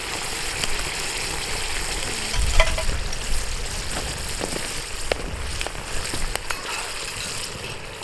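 Food sizzling on a hot cooking surface, with scattered small clicks and pops and a few low rumbles.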